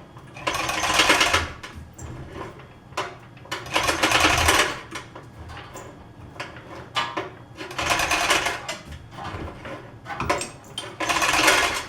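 Repeated bursts of metallic rattling and scraping, each about a second long and five in all, as a drill press head is worked down onto its column.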